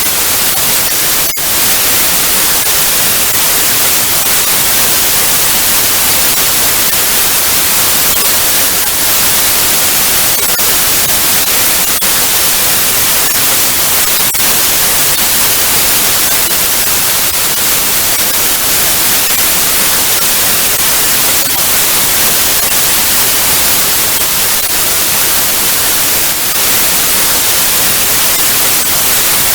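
Television static: a loud, steady hiss heaviest in the high end, with a brief dropout about a second in.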